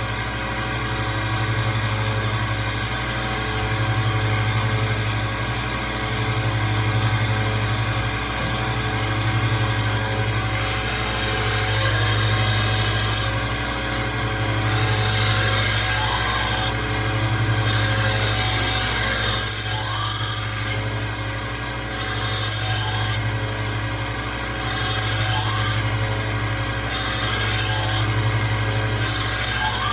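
A 1x30 belt sander running steadily while a steel knife blade is drawn across the belt freehand in repeated passes. Each pass adds a hissing grind lasting a second or two, as the blade's bevel is ground back and reprofiled.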